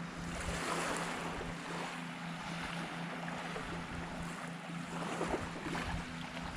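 Small waves washing on the beach with wind on the microphone, over a steady low hum.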